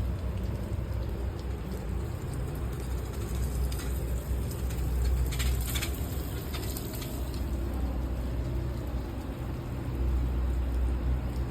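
Rainy city street ambience: a steady low rumble of traffic under a wash of rain, with a brief cluster of sharp ticks around the middle.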